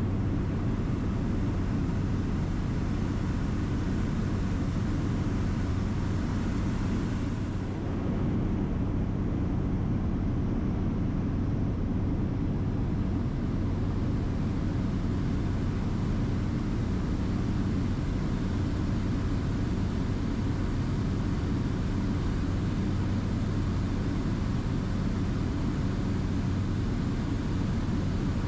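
Steady engine and airflow drone inside the cabin of a small plane in flight, with a constant low hum under a broad hiss. The hiss briefly dips about seven seconds in, then returns.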